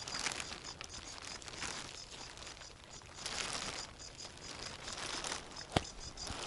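Irregular rustling and crinkling, like material or plastic being handled, with one sharp click near the end.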